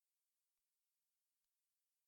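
Near silence: the sound track is almost empty, with only a faint hiss.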